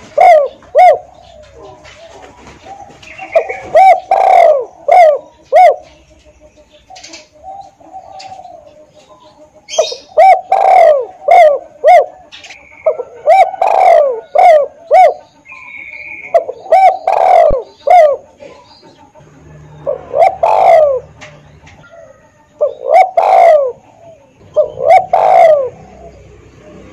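Spotted dove (tekukur) cooing: groups of several rounded coo notes repeated every two to four seconds, the song of a decoy (denak) bird. Faint high chirps of small birds sound between the phrases.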